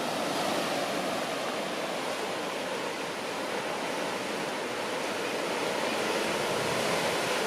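Ocean surf washing steadily against the coast below, a continuous even rush of water.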